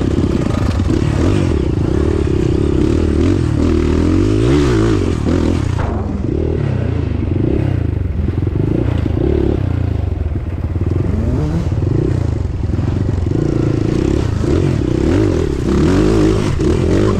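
Off-road motorcycle engine running under load on a rough trail, its revs rising and falling continuously, with scraping and clattering along the way.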